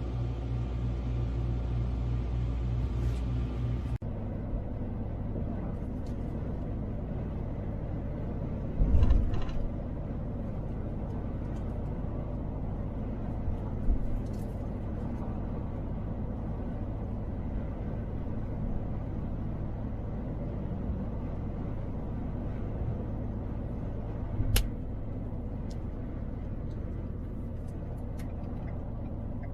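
Vehicle driving, with a steady low road-and-engine rumble. Three brief thumps, loudest about nine seconds in, come again near the middle and later on.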